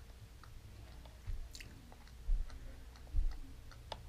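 A person chewing a mouthful of cooked walleye fillet, soft wet chewing with faint clicks and a few dull low thumps about once a second.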